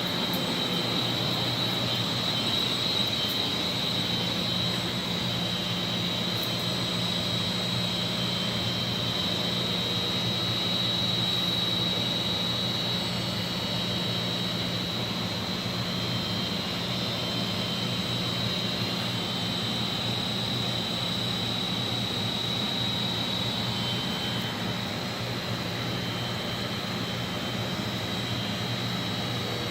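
Boiler-room machinery running: a steady drone with a low hum and a constant high-pitched whine.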